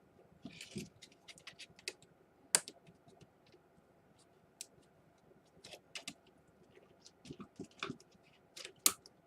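Screwdriver prying a Dell Inspiron 11 keyboard out of its glued, riveted plastic palmrest: irregular sharp plastic clicks and snaps with a few brief scrapes. The loudest snaps come about two and a half seconds in and again near the end.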